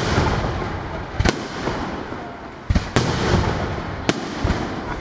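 Aerial firework shells bursting in sharp, loud bangs, roughly one a second with two in quick succession near the middle, and crackling from the bursting stars between the bangs.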